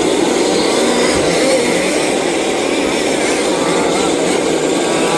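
Several 1/5-scale petrol two-stroke RC off-road cars racing at once, their engines running together into a steady, unbroken engine sound.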